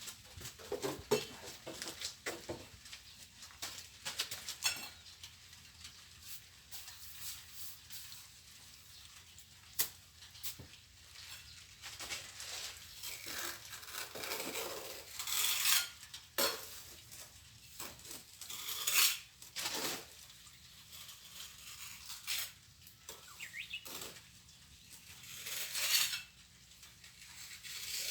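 Plastering trowel scraping and clinking against mortar and a tray in irregular strokes while mortar is applied and smoothed, with a few longer, louder scrapes in the second half.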